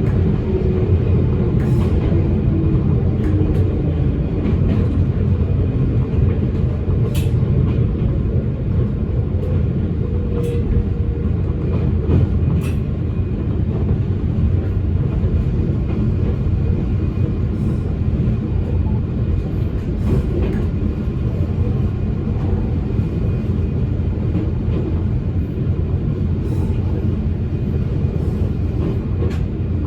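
Electric train running along the line, heard from inside the car: a steady low rumble with scattered clicks from the wheels and rail joints. A motor whine falls in pitch over the first few seconds.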